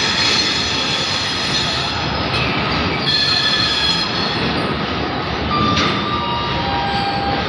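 Vande Bharat Express train set rolling along station tracks, with a steady noise of wheels on rail. High-pitched wheel squeal runs through the first two seconds and returns about three seconds in, and two brief steady tones sound near the end.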